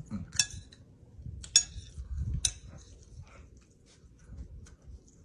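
Cutlery clinking against a plate or dish three times, about a second apart, between soft chewing sounds while someone eats.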